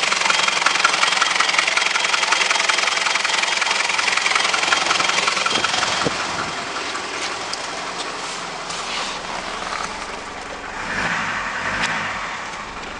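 Mitsubishi 4M41 3.2-litre turbo diesel idling with a steady fast diesel ticking, growing somewhat quieter about six seconds in.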